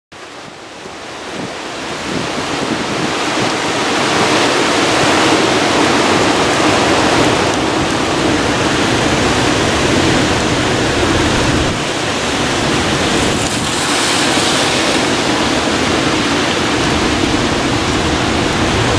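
Hurricane-force wind blowing and buffeting the microphone, building over the first few seconds into a steady roar that swells and eases a little.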